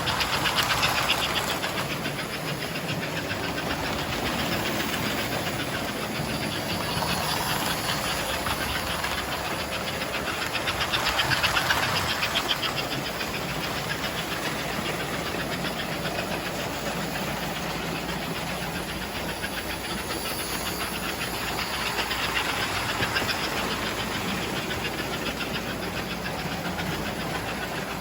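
American Flyer model steam locomotive running on its track, a steady hissing, fast-rhythmed run of motor and wheel noise. It swells louder about every eleven seconds.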